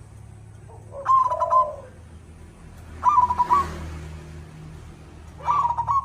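Zebra dove (perkutut) cooing: three stuttering, pulsed coo phrases about two seconds apart.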